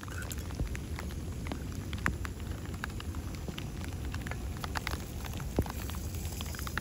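Rain falling, with individual drops ticking irregularly on nearby surfaces over a steady low rumble.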